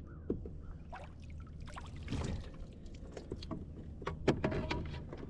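A Ketch fish measuring board being dipped in lake water beside a kayak: water splashing and dripping, with scattered light knocks and clicks of the board being handled against the hull.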